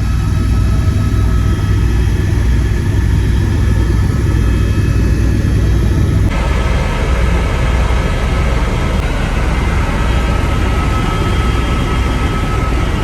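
Helicopter cabin noise in flight: a loud, steady drone of engine and rotor, heavy in the deep low end. Its character shifts abruptly about six seconds in.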